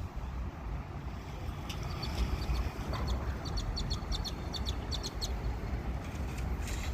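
Small birds chirping in quick, short repeated notes over a steady low rumble.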